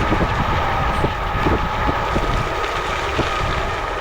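E-bike riding along a trail: wind rushing over the microphone and tyre rumble, with a steady high whine and frequent small bumps and knocks.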